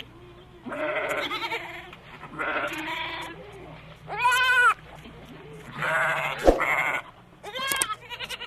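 Domestic sheep and goats bleating: about five or six separate bleats one after another, each lasting under a second, some with a wavering pitch that rises and falls.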